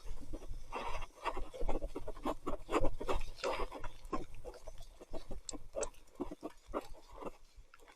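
Sticky wet mud squelching and popping under mountain bike tyres, an irregular string of short crackling bursts likened to popcorn popping in butter, with two brief high squeaks a little past the middle.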